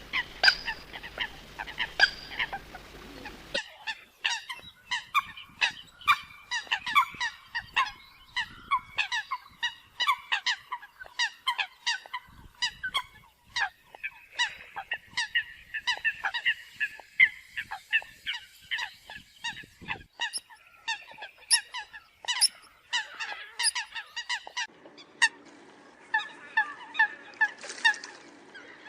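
Eurasian coots calling: a dense run of short, sharp honking calls, several birds overlapping. The background changes abruptly about three and a half seconds in, as at a splice in the recording.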